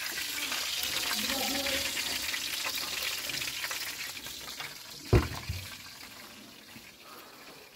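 Steady hissing from the gas-fired oven, fading away after about four seconds, with a single sharp thump about five seconds in.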